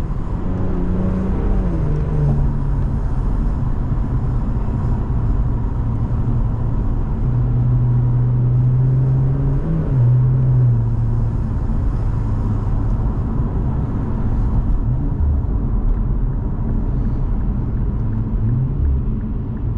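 The 2017 Infiniti Q60 Red Sport's 3.0-litre twin-turbo V6, running through the Infiniti Performance exhaust while driving at steady revs, gives a steady low exhaust drone. Its pitch rises and dips briefly a few times, near the start, about halfway through and near the end.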